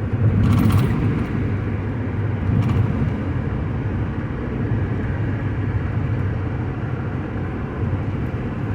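Steady low road and engine rumble heard from inside a vehicle cabin at freeway speed. A short, louder noisy rush comes about half a second in, and a smaller one about two and a half seconds in.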